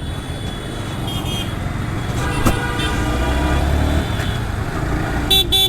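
Road traffic with steady engine rumble, and two short vehicle horn honks near the end.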